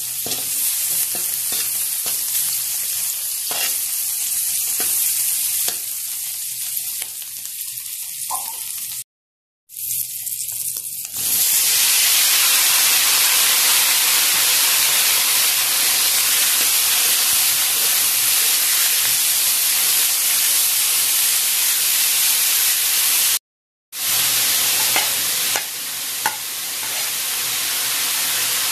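Chopped shrimp, onion, garlic and chili frying in oil in a wok while being stirred, crackling with small clicks. After a cut, chopped gourd pieces fry in the hot wok with a louder, steady sizzle.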